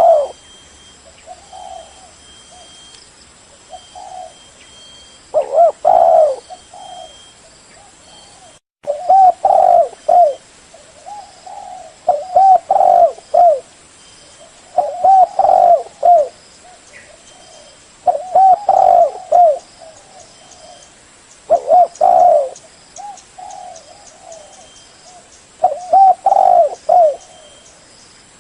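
Spotted dove cooing: loud, short coo phrases repeated about every three seconds, with fainter coos between them.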